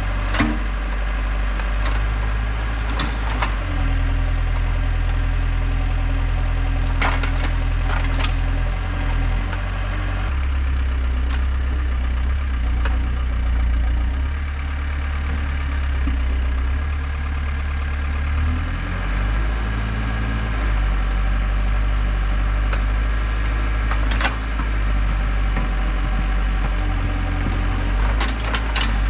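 Heavy equipment engine running steadily, its pitch shifting several times as the load changes. A few sharp cracks and knocks come and go.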